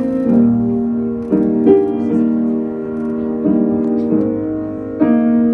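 Solo piano playing a slow introduction, with chords struck every second or so and left to ring.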